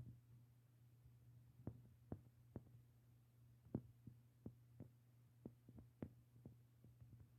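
Near silence: a faint steady low hum with scattered soft clicks at irregular intervals, the loudest about halfway through.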